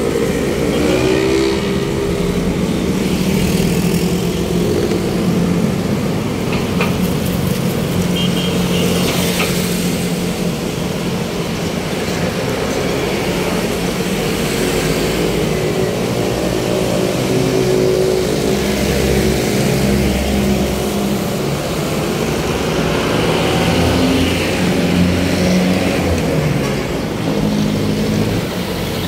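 Road traffic: several vehicle engines running close by, their steady hum shifting slowly in pitch, over tyre and street noise.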